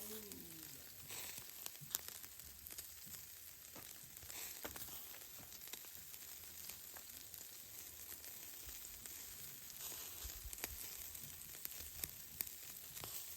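Meat sizzling over a charcoal fire: a faint, steady hiss with scattered small pops and crackles.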